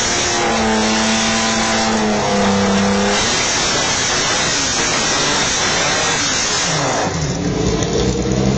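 Supercar engine running hard: its note steps down in pitch about two seconds in, as on a gear change. A rush of noise follows, then the engine note falls and settles into a lower steady tone near the end.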